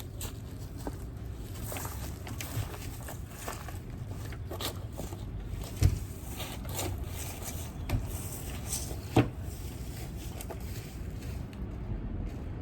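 Scattered knocks, scrapes and clicks of sticks and firewood being handled while a campfire is built, over a low steady rumble of wind. Three sharper knocks stand out about six, eight and nine seconds in.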